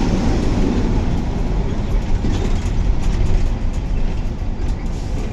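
Steady rumble of a KSRTC bus's engine and tyres, heard from inside the moving bus, with scattered light rattles from the body.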